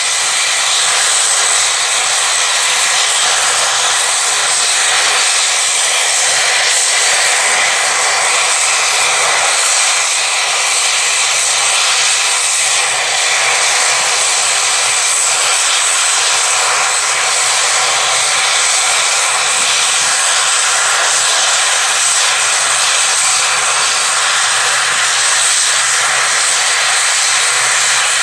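Aircraft engines running steadily and loudly: an even rush of noise with a thin, high, steady whine on top, holding the same level throughout without rising or falling.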